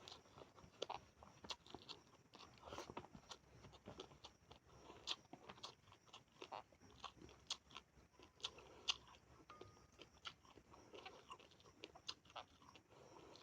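A person chewing and eating close to the microphone: irregular crunching and mouth clicks.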